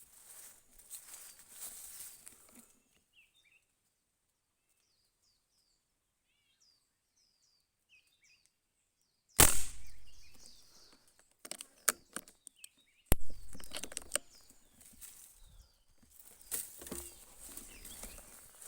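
Small birds chirping faintly, then two sharp shots about four seconds apart, each followed by rustling and clicking in the foliage.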